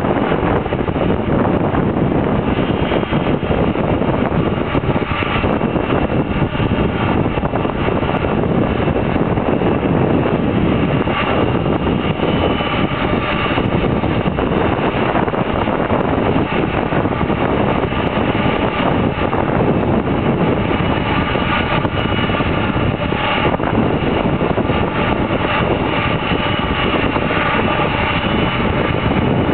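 Boeing 747 Dreamlifter's four turbofan jet engines running, a steady continuous rumble with a faint high whine on top.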